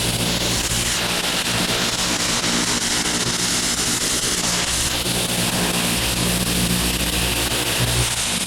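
Pressure washer running steadily: its engine's constant drone under the hiss of high-pressure water spraying onto paving.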